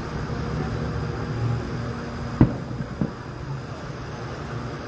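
Two fireworks shells bursting: a loud boom about two and a half seconds in and a smaller one just over half a second later, over a steady low rumble.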